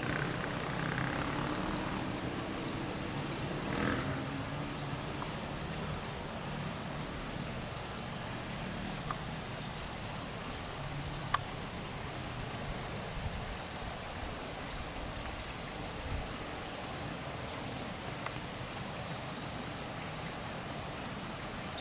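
Steady rushing water noise from rainwater, with one sharp click about eleven seconds in.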